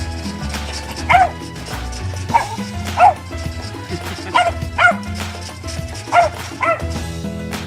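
A dog barking, about seven short barks, several in quick pairs, over background music with a steady bass.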